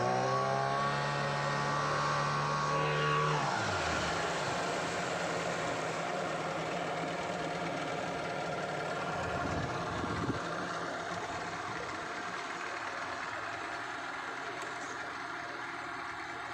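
Speedboat engine running under power, its pitch falling sharply as it is throttled back about three and a half seconds in. It then runs low and steady as the boat slows to come in and moor.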